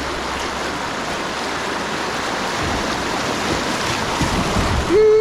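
River water rushing over a white-water stretch, a steady wash. Near the end a long pitched call begins and carries on past the end, falling in pitch as it fades.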